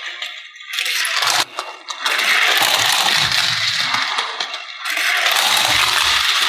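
Diecast toy cars and hard plastic playset pieces rattling and clinking as they are handled, a dense clatter of small clicks with a brief lull about a second and a half in.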